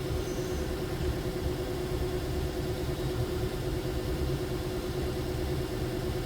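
A vehicle engine idling steadily: an even low rumble with a constant hum over it.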